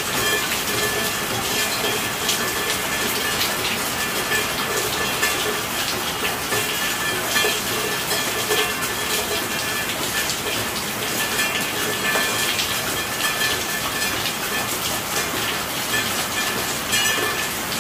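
Steady rainfall: a dense hiss of rain with many small drop taps throughout.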